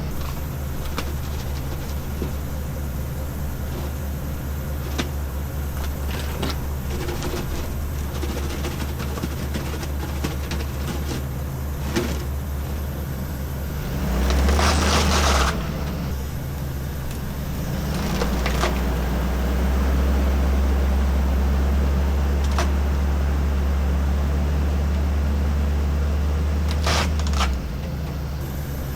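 Ambulance engine running outdoors with wind buffeting the microphone. There is a loud gust-like surge about halfway through, and in the second half the engine sound is louder and steady for about ten seconds.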